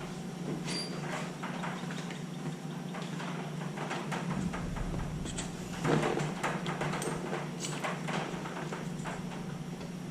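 Small metal tools and pipe fittings being handled: a run of clicks, scrapes and clinks, with one louder clatter about six seconds in, over a steady low hum.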